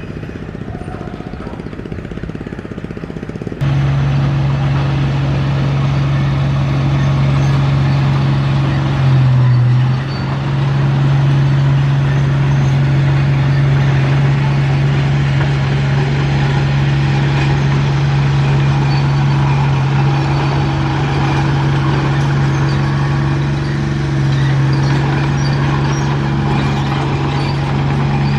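Heavy diesel engine of a construction machine running loud and steady at an even pitch. It cuts in abruptly after a few quieter seconds, and about nine seconds in it briefly rises in pitch before dipping and settling back.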